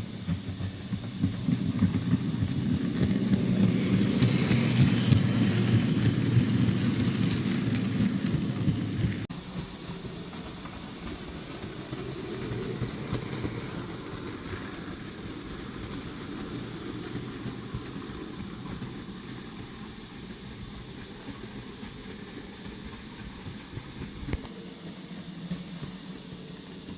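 Bachmann OO gauge model of a GWR 5700 class pannier tank running round the layout with a rake of box wagons: a steady rumble of motor and wheels on the track. It is loudest for the first nine seconds or so, then drops suddenly to a quieter running sound.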